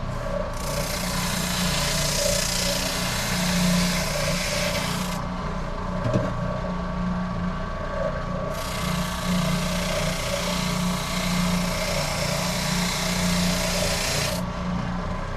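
Wooden guitar body being sanded: two long stretches of rough sanding hiss, each about five seconds, over a steady machine hum.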